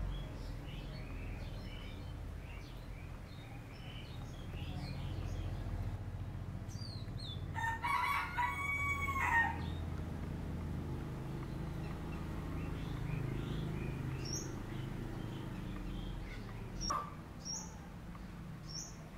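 A loud bird call about eight seconds in, one pitched cry lasting about two seconds, with small birds chirping now and then over a low steady rumble.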